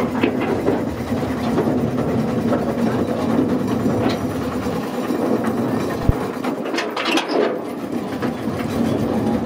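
A railway train running: a steady rumble and hum with a few scattered clicks and clatters.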